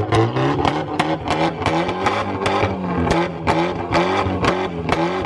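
A car engine held at a steady high rev with sharp pops and bangs about three to four times a second, the sound of a two-step launch limiter.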